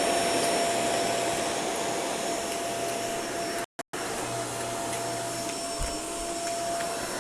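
Vacuum cleaner running steadily: an even rushing of air under a steady motor whine. It cuts out for a split second just past halfway, then carries on as before.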